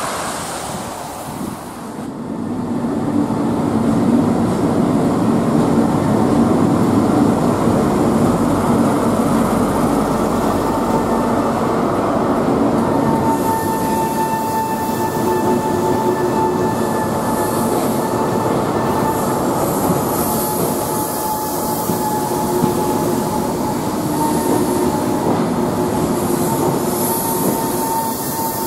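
ScotRail Inter7City Class 43 HST coaches running along the platform with a steady rumble, after about two seconds of wind and road noise. About eleven seconds in, a high, steady wheel squeal joins in.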